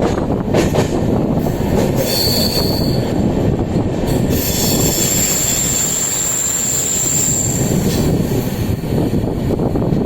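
Train running on the rails with a steady rumble, its wheels squealing in a high thin tone. There is a short squeal about two seconds in, then a longer, higher one from about four to eight seconds.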